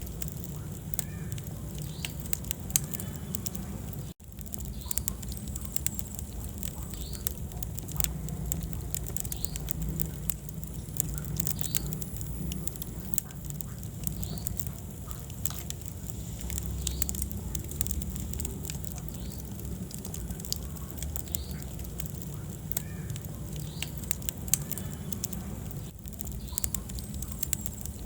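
Wood fire burning in a fireplace: frequent sharp crackles and pops of burning logs over a low steady rumble of flames, with a brief gap about four seconds in.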